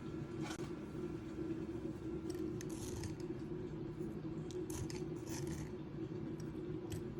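Short light scraping and snipping sounds in two clusters, about two to three seconds in and again around five seconds in, over a steady low hum.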